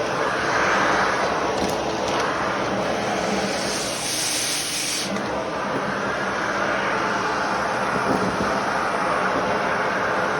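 Vacuum cleaner running steadily, with a brief sharper hiss of air about four seconds in.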